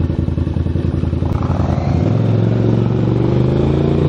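Motorcycle with a loud exhaust pulling away. A low, pulsing engine note climbs steadily in pitch from about a second in as it accelerates.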